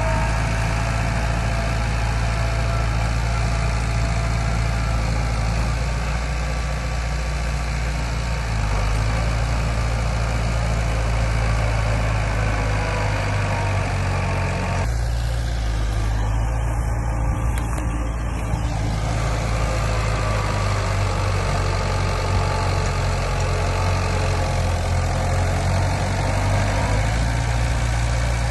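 Heavy diesel engine of earthmoving machinery running steadily at low revs, its sound changing abruptly about halfway through.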